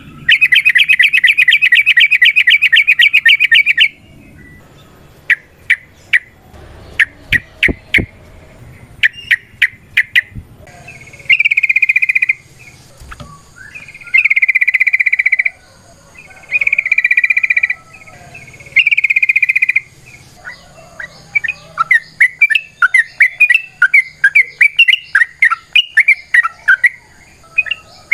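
Sooty-headed bulbul (trucukan) calling: a rapid trill lasting about four seconds, then scattered sharp chirps, then four shorter trills of about a second each, then a fast run of chirps near the end.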